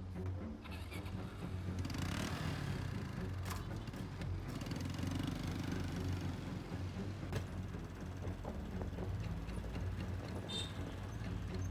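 Motorbike engine running steadily, with a low, even hum.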